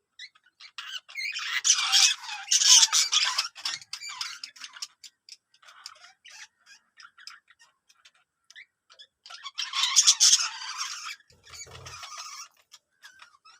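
Birds giving harsh squawking calls in two loud spells, one about a second in lasting roughly three seconds and another near the end, with scattered short clicks between them.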